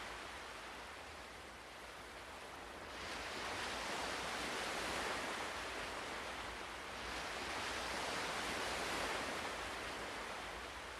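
Ocean waves washing onto a shore, two swells of surf rising and falling in a steady hiss.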